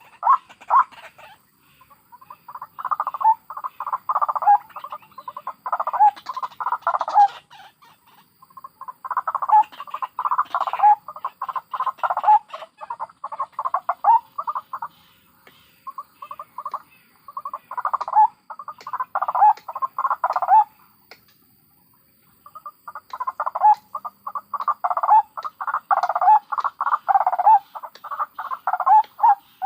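White-breasted waterhens (ruak-ruak) calling, adults mixed with chicks: fast runs of repeated notes, many a second, in bouts of several seconds broken by short pauses, the longest pause a little past the middle.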